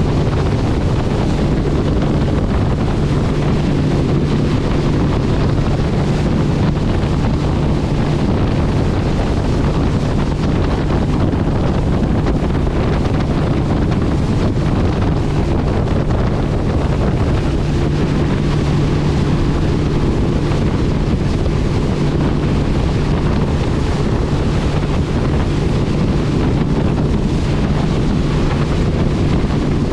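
Steady engine hum under heavy wind and road noise, as of a vehicle driving at a constant speed.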